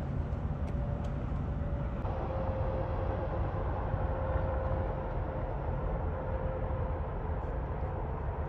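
Steady low rumble of highway vehicle and road noise from trucks and traffic, with a faint steady whine in the middle stretch.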